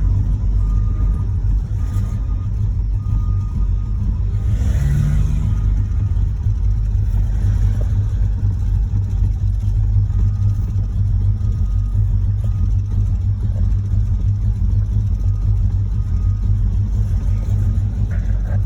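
A 1986 Chevrolet Monte Carlo SS's V8 running steadily as the car is driven, a low engine and road drone. The engine has a knocking connecting rod.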